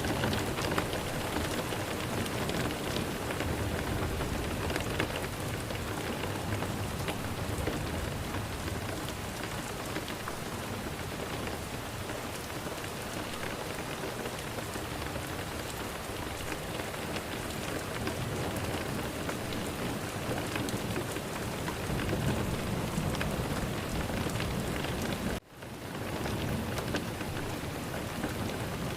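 Steady heavy rain, with low rumbles of thunder swelling late on. Near the end the sound cuts out for a moment and fades back in.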